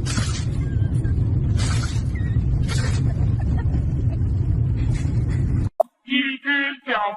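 A steady low rumble with a hissing rush every second or so, which cuts off suddenly near the end. Then a cat meows a few times.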